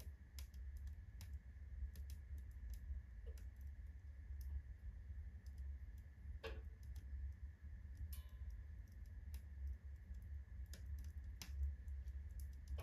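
Wood fire of elder kindling and alder burning in a fireplace stove, crackling with scattered, irregular sharp snaps over a low steady hum.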